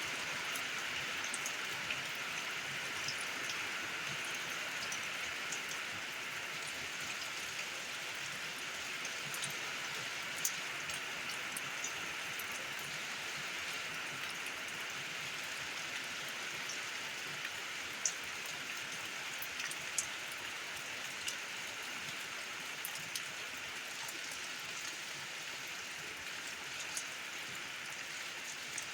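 Steady rain falling, an even hiss with scattered single drops ticking sharply here and there, two of them louder just past the middle.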